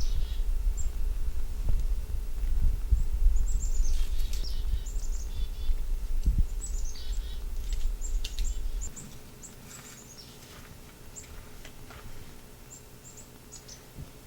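Chickadees calling: many short, high chirps that slide downward, coming in scattered runs. A low rumble underneath stops about nine seconds in.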